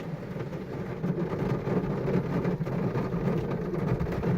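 Steady mechanical rumble heard from inside a car at an automatic car wash: the wash machinery running along with the car idling. It grows a little louder about a second in.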